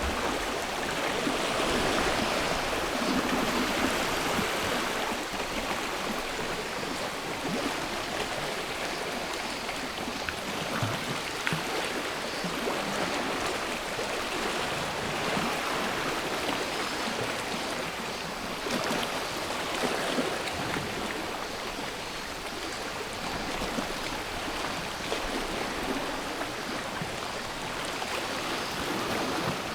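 Sea waves washing onto a shore: a continuous rush of water that swells and eases, loudest a few seconds in and again around the middle.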